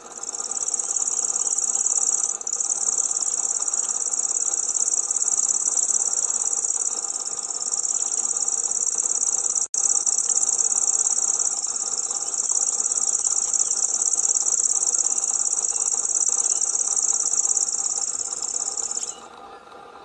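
Grasshopper warbler reeling: one continuous high, even reel held for about nineteen seconds, with a brief break about two seconds in and a split-second dropout near the middle. It stops about a second before the end, leaving a faint steady hum.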